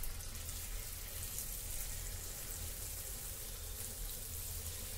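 Hot ghee sizzling in a paddu (appam) pan as batter is spooned into its cavities: a steady frying hiss.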